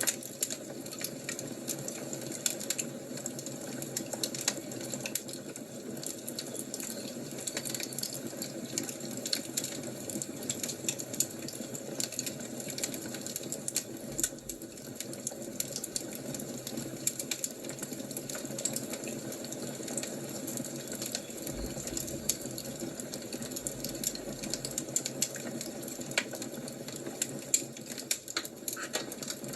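Wood fire crackling: a steady hiss with frequent irregular sharp pops and snaps.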